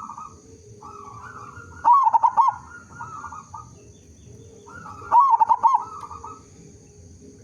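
Zebra dove (perkutut) cooing: two loud bursts of quick, rolling coo notes about three seconds apart, with softer cooing between them.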